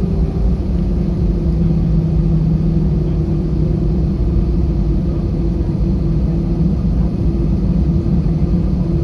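Cabin noise of an Airbus A320 on the ground, engines at idle: a steady low rumble with a steady low hum.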